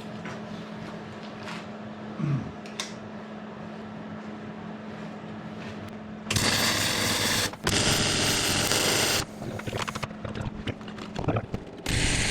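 Workshop machine humming steadily, then a loud rushing noise in two bursts of about a second and a half each, starting about six seconds in, and a short burst near the end.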